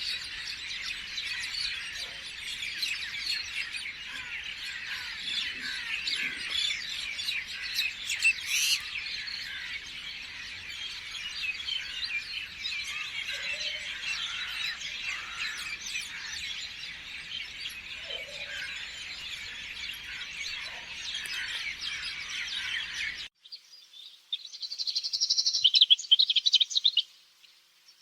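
Many small birds chirping together in a dense, continuous chorus, which cuts off abruptly about 23 seconds in. After a short gap, a single louder bird gives a rapid trill for a couple of seconds before it stops.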